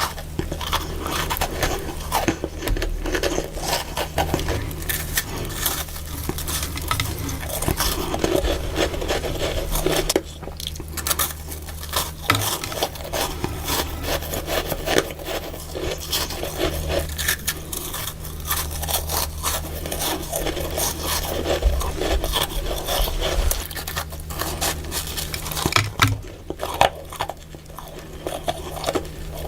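Freezer frost being scraped and crunched, a dense run of crackly scrapes and crunches.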